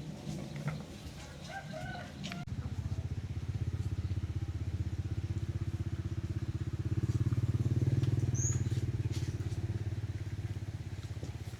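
A small engine running with a low, rapid firing beat. It starts about two seconds in, swells to its loudest about two-thirds of the way through, then slowly fades, as a passing motorbike does.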